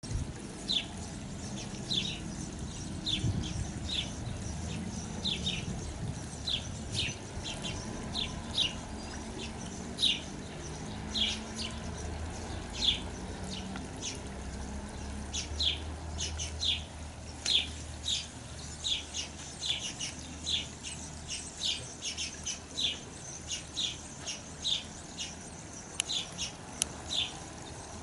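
House sparrows chirping: short, sharp chirps repeated one or two a second, over a low background rumble.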